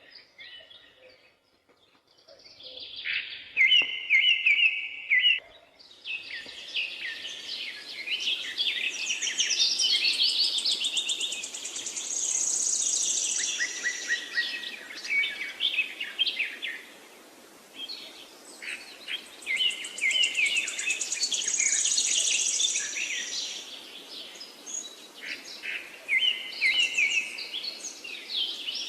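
Several songbirds singing, a busy mix of chirps, rapid trills and high whistles over a steady background hiss. It starts sparse and faint, then fills in after a few seconds.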